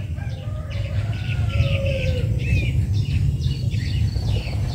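Small birds chirping in quick, repeated high calls over a steady low rumble.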